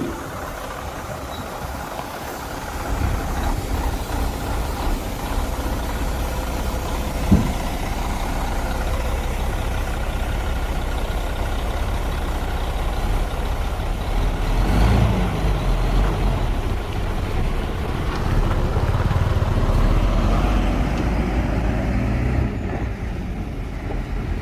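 Komatsu D41P bulldozer's diesel engine running steadily, working harder about halfway through and again toward the end, with a single short thump about seven seconds in.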